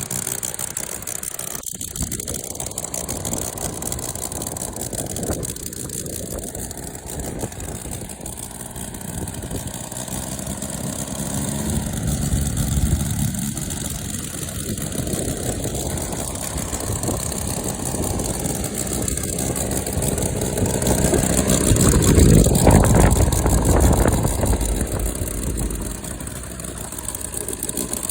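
UML-160 five-cylinder rotary model engine running on methanol and driving a large propeller, its throttle opened and eased back several times. It is loudest about two-thirds of the way through, then drops back to a lower speed near the end.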